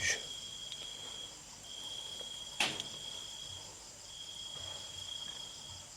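Crickets trilling at night: a steady high-pitched trill in stretches of a second or two with short breaks, over a fainter, higher, constant insect chorus. One sharp click about two and a half seconds in.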